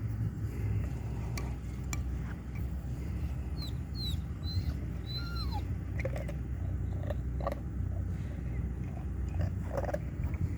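Great Dane breaking and chewing ice at the water's edge: scattered sharp cracks and crunches over a steady low rumble, with a few short high chirps about four to five seconds in.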